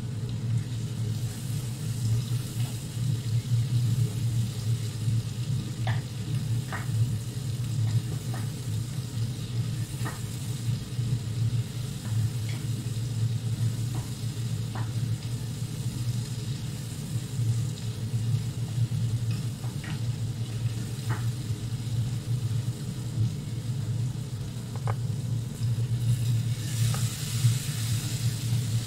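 Chopped tomato and onion sizzling in a pot as a wooden spoon stirs it, the spoon knocking against the pot now and then, over a steady low hum. The sizzle grows louder near the end as the stirring picks up.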